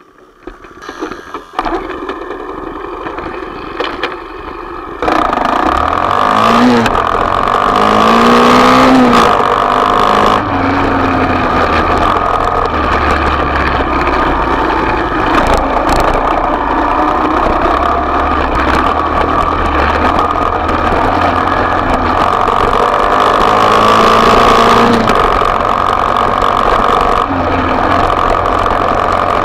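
A small off-road motorbike engine running and being revved, its pitch rising and falling. It gets much louder about five seconds in and stays loud.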